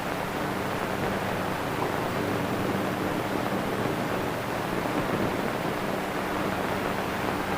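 Steady hiss with a faint low hum from the worn soundtrack of an early-1930s sound film, with no other sound.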